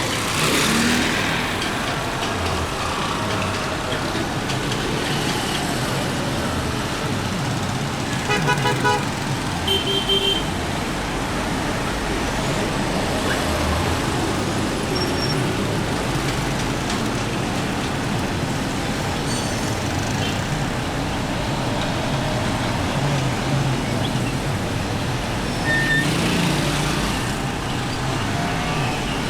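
Steady road and wind noise of a motorcycle riding in city traffic, with a vehicle horn giving a quick run of short beeps about eight seconds in and one more short beep a second later.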